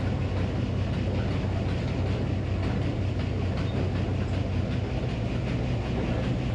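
Minneapolis Moline HEB 605 cubic-inch engine running steadily under a constant drone, powering the Frick circular sawmill.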